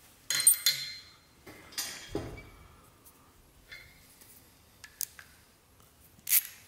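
Small metal parts clinking and knocking as they are handled, a few separate clinks spaced over several seconds, with a brief scrape near the end.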